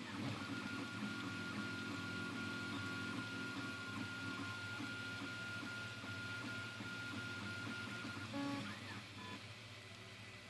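Anet A8 3D printer's stepper motors whining as it prints. A steady high whine holds through most of the move, then stops about eight seconds in and gives way to short, changing tones as the motion shifts.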